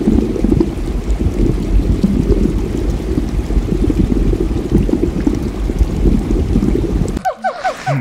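Steady low rush and bubbling of aquarium water. About seven seconds in it cuts to a quick run of short, squeaky, falling notes.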